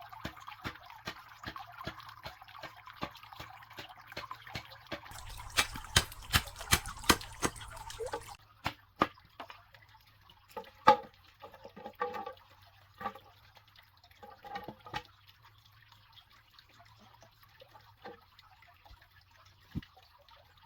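A series of light, sharp knocks and clicks, about two a second at first, crowding together around five to eight seconds in, then thinning out to scattered taps.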